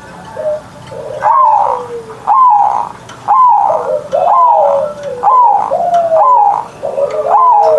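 Zebra dove (perkutut) cooing: a run of about seven loud notes, roughly one a second, starting about a second in, each note falling in pitch.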